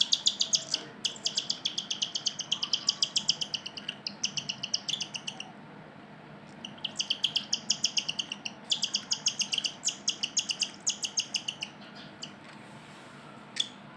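Cockatiel giving rapid, evenly repeated high chirps, about seven a second, in two long bouts with a short pause around six seconds in; a couple of sharp clicks near the end.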